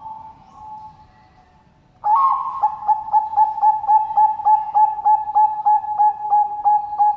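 Zebra dove (Bangkok perkutut) cooing. A faint coo comes first, then about two seconds in a loud, fast run of short cooing notes at one steady pitch, about four a second.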